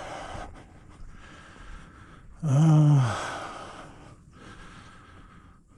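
A man breathing hard, with one loud voiced sigh that falls in pitch about two and a half seconds in.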